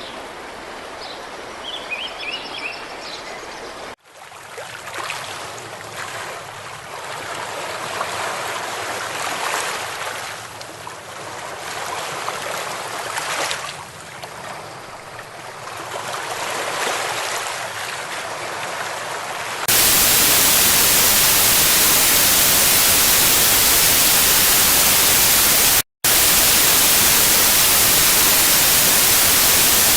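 Floodwater rushing, a noisy rush that swells and fades over several seconds. About two-thirds of the way in it cuts to a loud, even hiss like static, broken by a momentary dropout.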